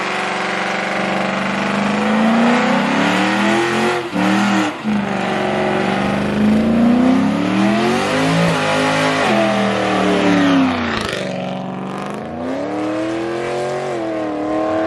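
Car engine revved hard over and over. Its pitch climbs and falls in four or five long sweeps over a steady hiss, dipping briefly about four seconds in and again about eleven seconds in.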